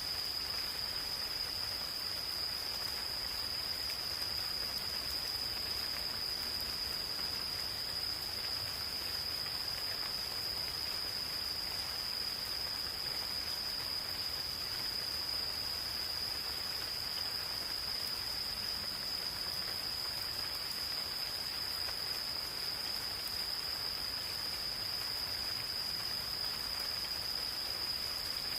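Insects singing in one continuous high-pitched trill that never breaks, over the soft even hiss of gentle rain falling in a forest.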